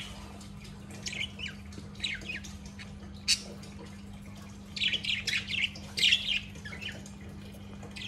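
Caged pet birds giving short, high chirps in scattered clusters, around one to two and a half seconds in and again near five and six seconds. A single sharp click comes a little after three seconds, over a faint steady low hum.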